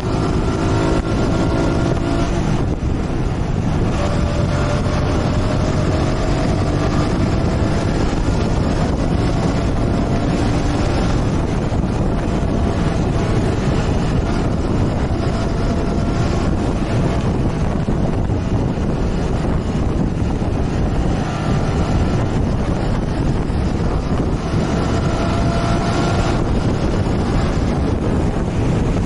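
Motorcycle engine running while riding, under heavy wind rush on the microphone, its note gliding up and down now and then as the speed changes.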